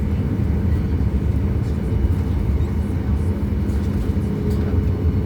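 Steady low rumble of a Boeing 737 MAX 8 jet airliner, from its CFM LEAP-1B turbofan engines and the airflow, with a faint hum of steady tones under it.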